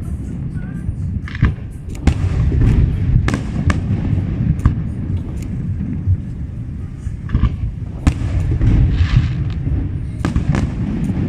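Fireworks display: a string of sharp bangs and cracks at uneven intervals over a continuous low rumble of further bursts.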